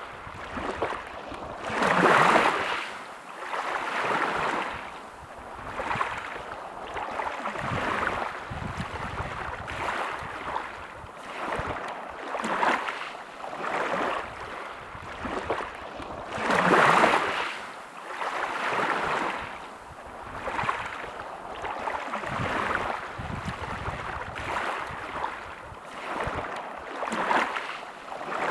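Sea waves washing onto a beach: a continuous surf hiss that swells and ebbs every few seconds, with two louder breakers, one about two seconds in and one a little past halfway.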